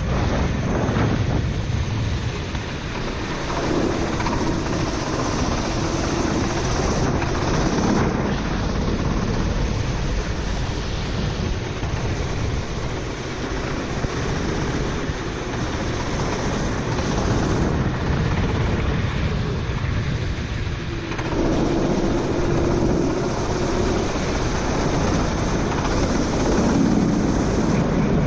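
Four-stroke racing kart engine running at speed on a wet track, its note coming and going, under heavy wind rush and water spray on the onboard microphone.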